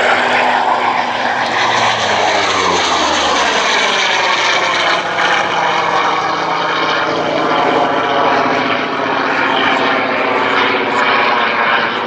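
Propeller-driven aircraft's piston engine flying past. Its engine note falls in pitch over the first few seconds as it passes, then settles into a steady drone.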